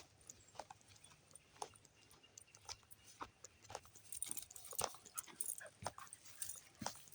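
Faint, irregular crunching and clicking footsteps of a person and dog walking, a little louder about four to five seconds in.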